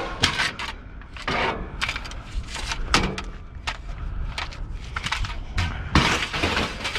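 Pieces of scrap metal being handled and thrown onto a pile: a run of irregular clanks and knocks with scraping in between, the loudest about three seconds in and near the end.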